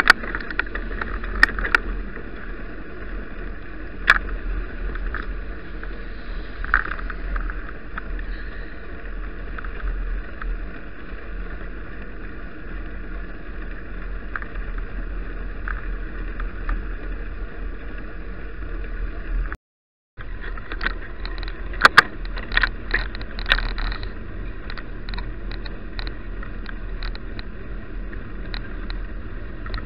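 Bicycle being ridden on a snowy road: steady tyre noise and a low wind rumble on the microphone, with scattered clicks and rattles from the bike going over bumps. The sound drops out completely for about half a second two-thirds of the way through.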